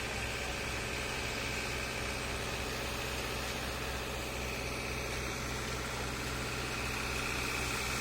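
A heavy engine idling steadily, a low even drone with a thin high whine over it.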